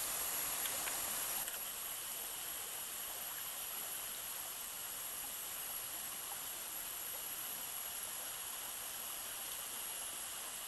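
Steady outdoor background hiss, like running stream water, with a thin constant high-pitched drone over it. It drops slightly in level about a second and a half in.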